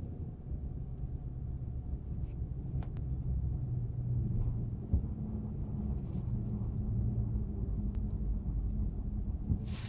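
Chrysler 300 SRT's rear end turning tight circles at low speed: a steady low rumble with a rotating howl that the owner suspects comes from the rear differential. A sharp tick about five seconds in and a short hiss near the end.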